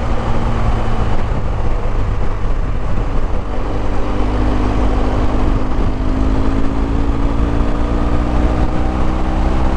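Motorcycle engine running while riding, under a heavy low rumble of wind on the microphone. About halfway through, a steady engine note comes up and climbs slowly in pitch as the bike gathers speed.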